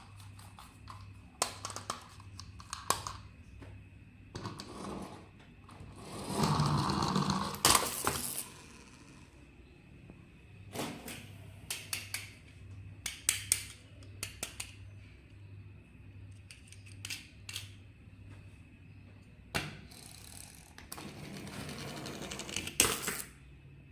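Scattered clicks and taps of plastic toy parts and packaging being handled, with a longer, louder noisy stretch about six to eight seconds in and again near the end, over a faint steady hum.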